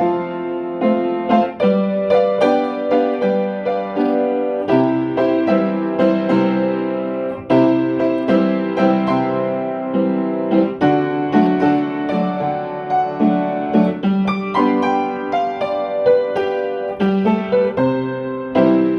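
Solo piano music: a steady stream of struck notes and chords, each fading after it is played.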